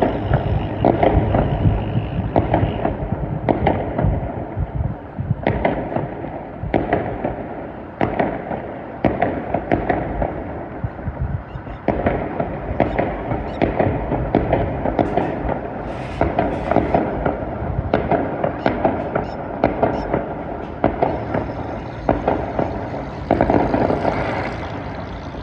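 Fireworks display going off: a continual run of bangs and crackling pops, several a second at times, picked up on a phone's microphone.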